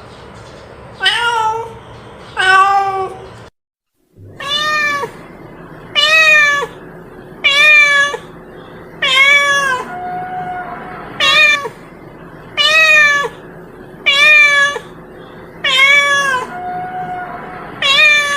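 A domestic cat meowing over and over, about every one and a half seconds, each meow rising and then falling in pitch, with a short silent break near four seconds in.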